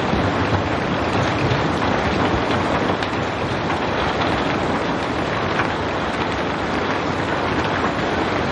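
Steady rain falling, an even wash of noise with faint scattered drop ticks.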